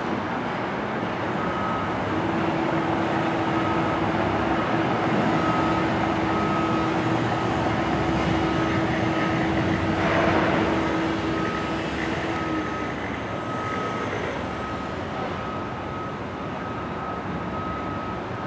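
Construction-site din: a reversing alarm on heavy equipment beeping about once a second over a steady rumble of machinery and traffic. A steady hum runs under it and stops about two-thirds of the way through.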